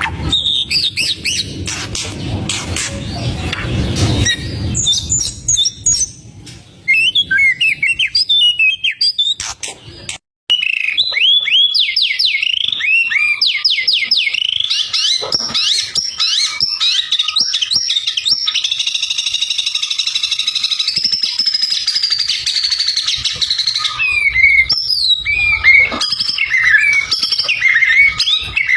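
White-rumped shama (murai batu) singing a fast, varied song of gliding whistles and trills. A low rumbling noise lies under the song for the first few seconds, and the song breaks off briefly about ten seconds in, then runs on without a pause.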